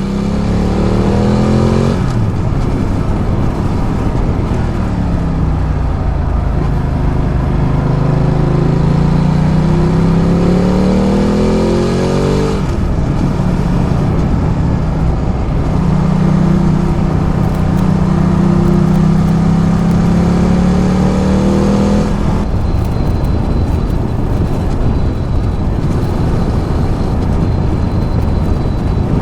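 Ducati Multistrada 1200's L-twin engine running under way, its pitch climbing, dropping once and climbing again. About 22 seconds in the engine note falls away, leaving a steady rush of noise.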